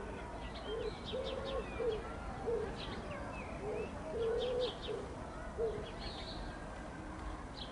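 Birds calling: a run of short low cooing notes in the manner of a dove or pigeon, with smaller birds chirping in quick high notes over them.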